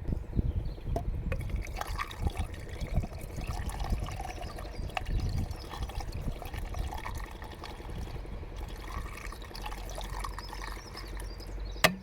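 Water being poured from a jug into a car's windscreen washer reservoir, with a sharp knock near the end.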